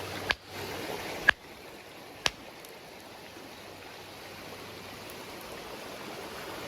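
Three sharp stone-on-stone strikes about a second apart, a hammerstone hitting a chunk of quartzite to knock off a flake, the middle strike the loudest. A creek runs steadily underneath.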